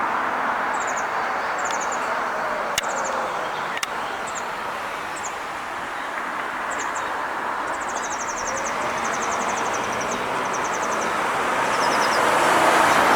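Steady road traffic noise with a small bird chirping in short, high-pitched bursts, breaking into a fast trill about eight seconds in; the traffic grows louder near the end as a car approaches.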